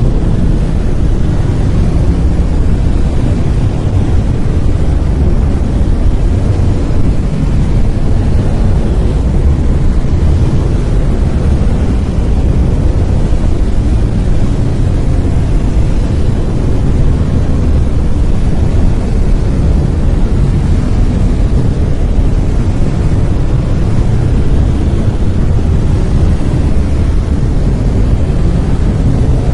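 Brown noise: a steady, loud, deep hiss with most of its energy in the low end, fading toward the highs, unchanging throughout.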